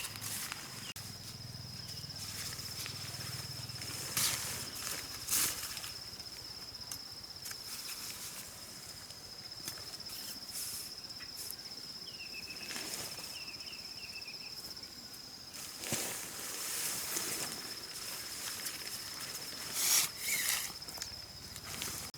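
Steady high-pitched insect drone, with a few short rustles and knocks scattered through it and a brief run of chirps about halfway through.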